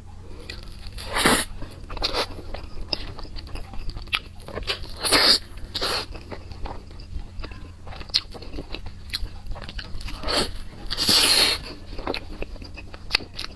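Close-miked biting and chewing of crisp chili peppers: loud crunching bites, the longest about two thirds of the way through, between quieter wet chewing clicks. A steady low hum sits underneath.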